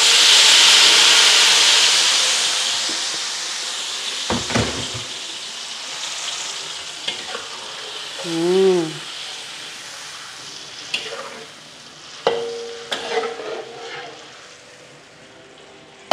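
Blended chili paste poured into hot oil in an aluminium wok, sizzling loudly at first and fading over the next few seconds, then a spatula stirring and scraping in the wok. A knock about four seconds in and a short wavering tone a little past the middle.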